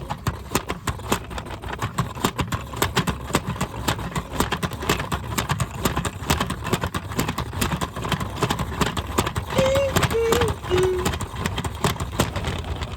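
Washing machine running, its drum turning with a steady low rumble and a fast, uneven clatter of rattles and knocks. Three short falling tones sound briefly near the end.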